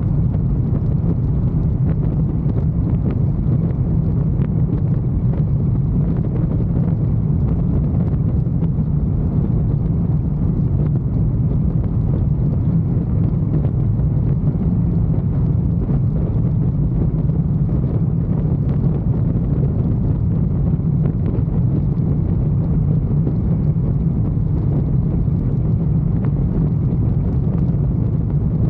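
Motorcycle riding at a steady speed: the engine and rushing wind make an even low rumble, with no gear changes or revving.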